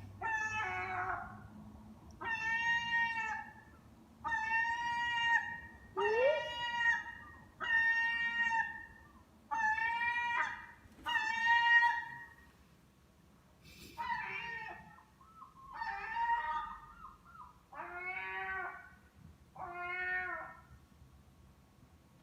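A seagull giving a series of about eleven drawn-out mewing "ah" calls, each about a second long, one every second or two. The last few calls are softer and rougher.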